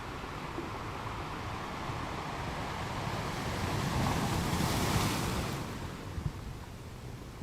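Ocean wave breaking: a rush of water that swells to a peak about five seconds in and then fades away.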